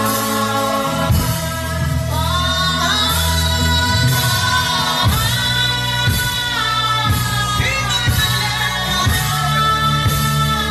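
Wordless gospel humming and singing: a slow worship melody that glides between long held notes over sustained low backing chords that change every second or two.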